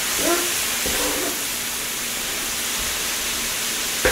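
Shrimp, andouille sausage, peppers and onions sizzling on a hot electric griddle, a steady hiss, with a few light knocks of a wooden spatula on the plate as the food is stirred.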